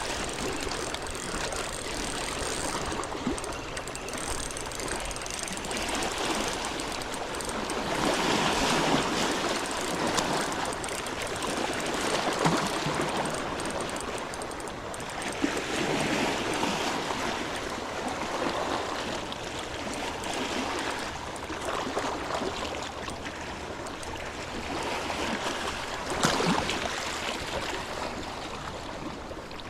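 Small sea waves washing on the shore, the rush swelling and easing every few seconds, with an occasional sharp click.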